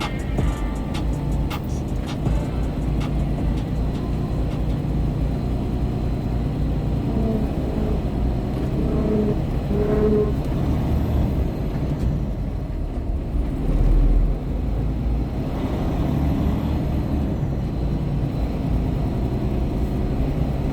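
Semi-truck cab interior while driving: steady engine and road rumble, with a heavier low bump about two-thirds of the way through.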